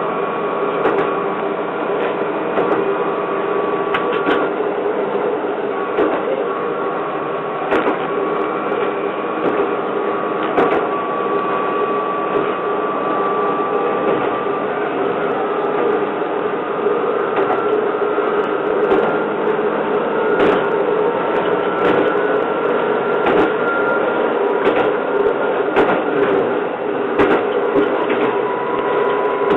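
Japanese local train running, heard from inside: a steady running drone with a whine that slowly rises in pitch, and scattered sharp clicks of the wheels over rail joints.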